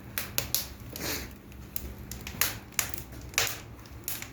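Firewood crackling and popping in a newly built fireplace on its first firing, with irregular sharp snaps.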